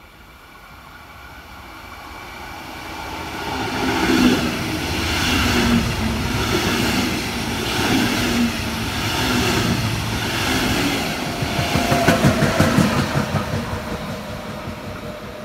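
A locomotive-hauled double-deck passenger train running through the station. A rumble builds as it approaches, then rhythmic wheel clatter repeats about every second and a half as the coaches pass close by. The sound is loudest as the locomotive at the rear goes past, then fades as the train recedes.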